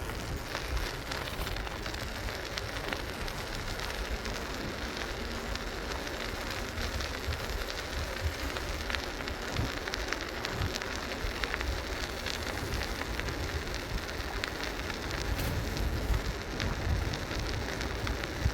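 Steady riding noise from a moving Schwinn Wayfarer bicycle: wind rumbling on the microphone and tyres on pavement, with many small clicks and rattles throughout.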